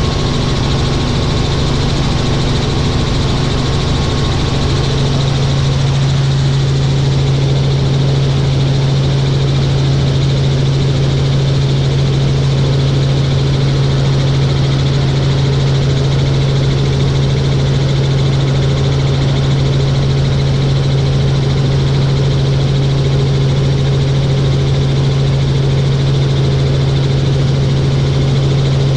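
Helicopter in flight: a steady, loud drone of engine and rotors with a strong low hum, which grows a little stronger about five seconds in.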